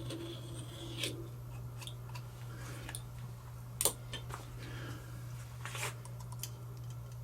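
Hand deburring of a machined metal edge: short, irregular scrapes and clicks of a tool on the metal, the sharpest about four seconds in and near six seconds, over a steady low hum.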